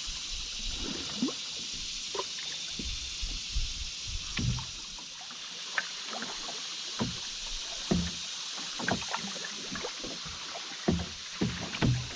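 Canoe being paddled on a river: irregular soft knocks and splashes from the paddle, coming more often near the end, over a steady high hiss.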